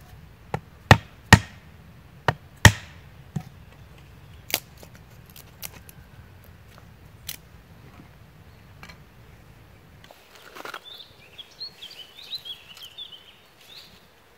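Splitting dry chestnut kindling with a small neck knife: a burst of sharp wooden knocks as the blade is struck through the wood along its drying crack, loudest in the first three seconds, then lighter, sparser taps. Near the end, a few seconds of crackling and rustling.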